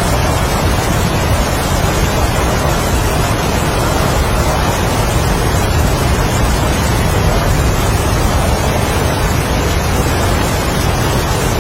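Strong wind and heavy rain: a loud, steady rushing noise with no breaks.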